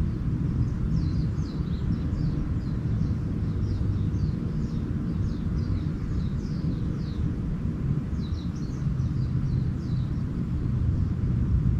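Small birds twittering in quick runs of short, high, falling chirps, in two spells of several seconds each, over a steady low rumble that is the loudest sound throughout.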